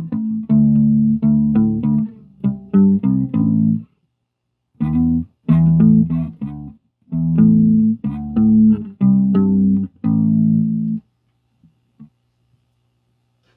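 Electric bass (Fender Jazz Bass) played through an MXR M175 digital delay into an Orange Crush bass amp: short phrases of plucked notes with brief pauses, the effect heard on the notes. The playing stops about eleven seconds in, leaving only a faint amp hum.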